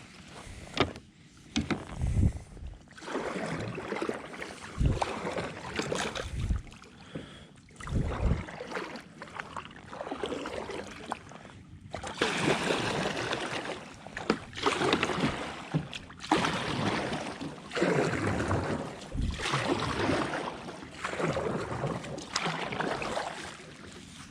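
Kayak paddle strokes splashing in the water, a swish about every one to two seconds, with a few knocks against the kayak in the first seconds.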